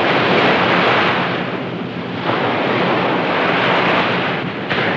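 Wind buffeting the microphone over the rush of sea water on a boat, a steady loud noise that dips briefly about two seconds in.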